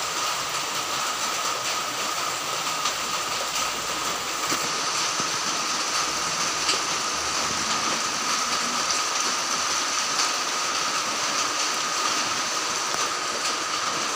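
Heavy rain falling steadily: an even, unbroken hiss with faint ticks of drops.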